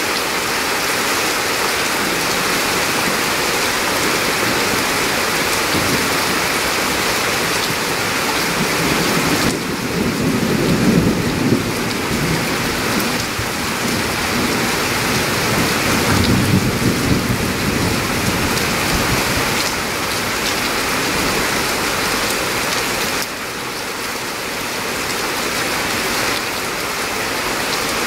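Steady rain falling, with low rumbles of thunder swelling up twice, about ten and sixteen seconds in.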